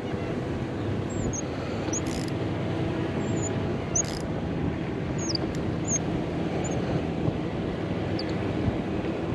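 Steady low outdoor rumble with short, high, falling chirps about ten times.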